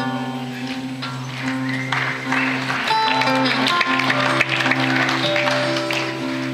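Acoustic guitar playing a slow, ringing song intro in a concert hall, with the audience briefly clapping and cheering in the middle as the song is recognised.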